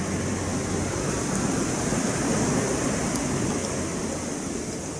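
Wood campfire burning with a steady rushing noise and a few faint crackles, getting quieter near the end.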